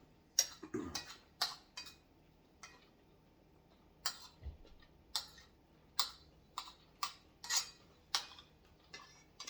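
Eating at the table: a string of short, sharp clicks and clinks, about one every half second, irregularly spaced.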